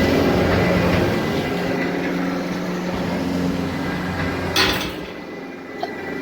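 Farm machinery engine running steadily, then dropping away about five seconds in, with a sharp metallic clank just before it fades.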